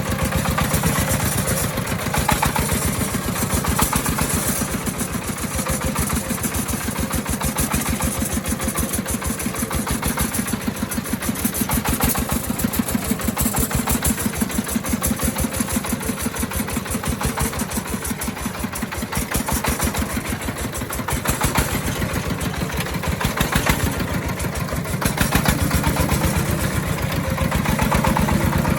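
Engine of an agricultural timber-hauling vehicle running steadily with a rapid, even beat of firing pulses, a little louder near the end.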